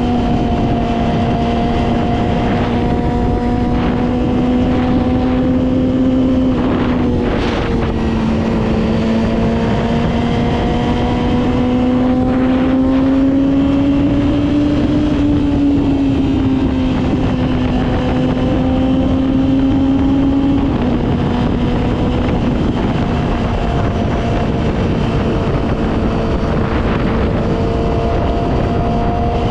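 Yamaha R6 sport bike's inline-four engine running at steady, fairly high revs while riding, under heavy wind noise. Its pitch drops a step about seven seconds in, rises gently, then drops again about twenty seconds in.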